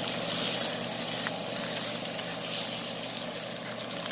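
Hot dogs sizzling steadily as they fry in a large skillet on a stovetop.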